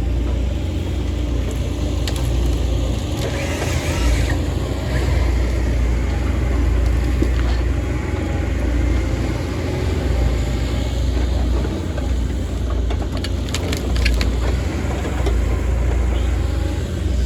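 Heavy diesel machinery running steadily with a deep rumble, with occasional squeaks and creaks and a few sharp knocks near the end.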